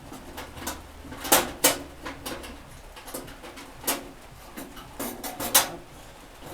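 Irregular sharp clicks and knocks from handling the metal camp stove, with the two loudest knocks close together about a second and a half in and another cluster near the end.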